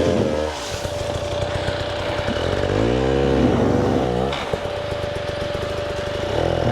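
KTM 300 EXC two-stroke dirt bike engine revving up and dropping back a few times, working on a steep, technical climb.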